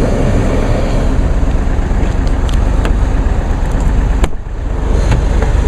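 Steady noise of a car running with its heater or defroster fan blowing, with a few light clicks and a brief dip in level about four seconds in.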